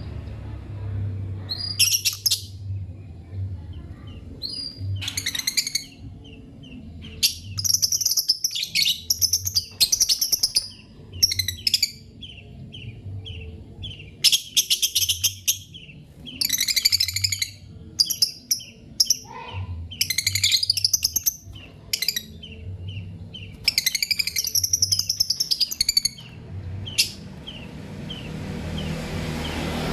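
Lovebirds chirping: bursts of rapid, shrill chattering a second or two long, separated by short single cheeps repeated at an even pace.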